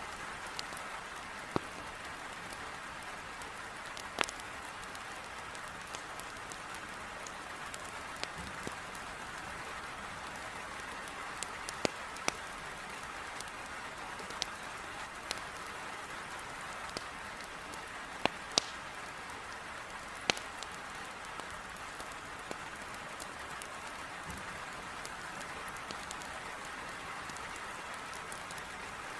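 Heavy rain pattering steadily against a window, with a wood fire in a fireplace giving sharp, irregular crackling pops every second or two.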